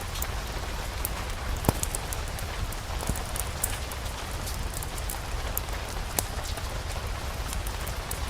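Steady rain, with a low rumble beneath and many scattered sharp ticks of drops, two of them louder.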